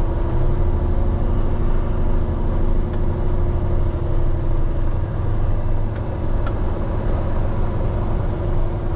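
Diesel engine of a Peterbilt 389X heavy rotator wrecker running steadily as the truck drives slowly, a constant low rumble with a steady drone.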